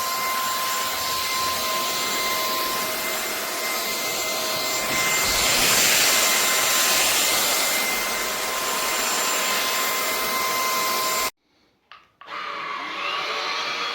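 Vexilar V9PRO cordless stick vacuum running with a steady motor whine, growing louder for a few seconds midway. About eleven seconds in it cuts off abruptly, then resumes a second later at a lower level.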